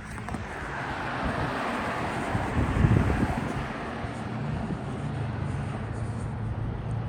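Road traffic: a vehicle passes, its tyre and engine noise swelling about a second in and fading away by about five seconds, over a steady low engine hum. Wind buffets the phone's microphone with low rumbles, loudest about three seconds in.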